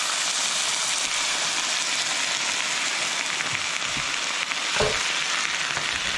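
Canned tomatoes sizzling steadily in hot oil in a skillet with sautéed onion, garlic and jalapeño, being stirred in. One dull knock a little before five seconds in.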